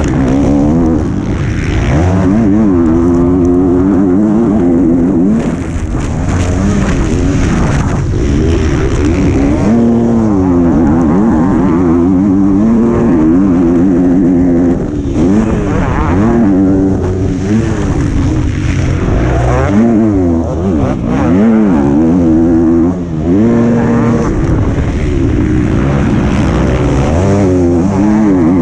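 125 cc motocross bike engine at race pace, heard onboard: the revs climb and drop again and again as the rider accelerates, shifts and backs off, with a few short throttle cuts.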